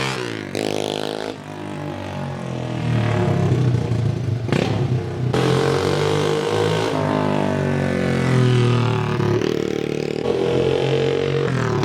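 Apollo 110cc pit bike's single-cylinder four-stroke engine revving up and down repeatedly while being ridden, very loud with no muffler fitted.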